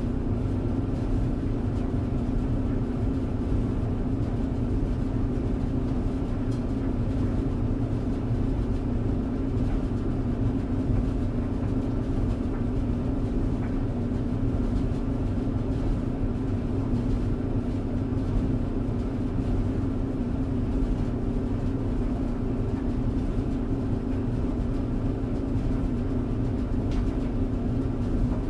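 Tumble dryer running: a steady, even drone with a constant hum over a low rumble.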